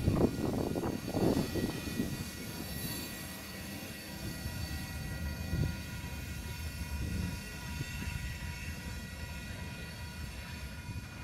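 Covered hopper cars of a freight train rolling past, wheels clattering on the rails, loud for the first two seconds and then a steadier, quieter rumble with a few knocks as the last cars go by.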